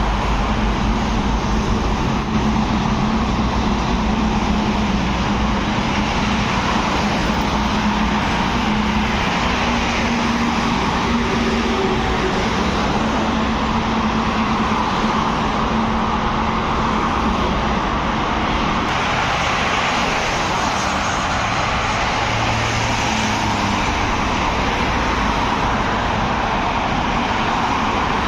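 Steady road traffic noise of vehicles driving past, with a low, steady hum through the first two-thirds that fades out.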